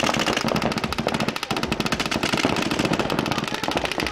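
Several paintball markers firing rapid streams of shots at once, the pops overlapping into a continuous rattle.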